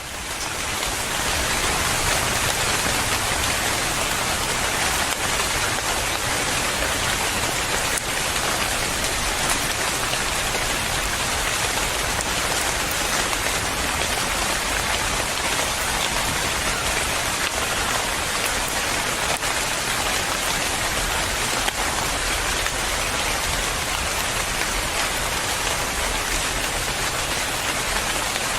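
Steady rain, fading in over the first two seconds and then holding at an even level.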